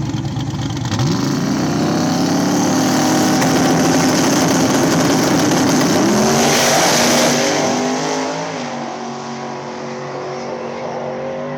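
Drag race car engines at full throttle on a pass down the strip. The engine note climbs about a second in and again around six seconds, is loudest about six to seven seconds in, then drops to a lower, steady drone.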